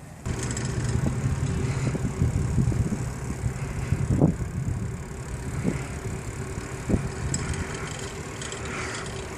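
Low rumble and wind buffeting on the microphone of a camera carried while cycling, with a few sharp knocks. The sound starts suddenly just after the beginning.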